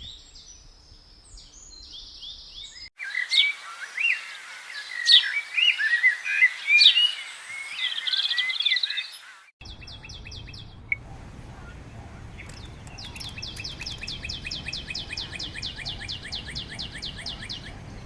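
Wild birds singing: loud whistled phrases with quick rising sweeps, then, after an abrupt cut, a long fast run of repeated high notes at about six a second over a low steady background.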